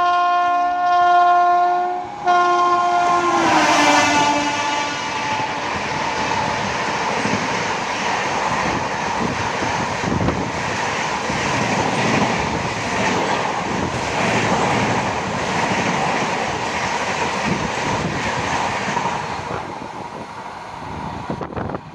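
Indian Railways electric locomotive sounding a long horn blast, broken briefly about two seconds in, its pitch dropping as it passes close at speed. Then the steady rush and clatter of the express's coaches going by, fading near the end.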